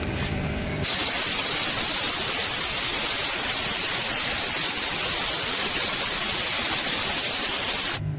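A loud, steady hiss of a pressurised jet starts about a second in and cuts off suddenly near the end.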